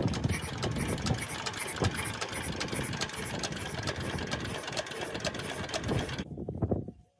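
Restored rice-mill diesel engine running steadily with an even, rapid beat, cutting off abruptly about six seconds in.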